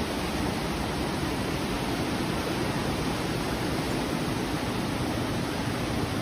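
Steady rushing noise of storm water, even and unbroken, with no distinct splashes or knocks.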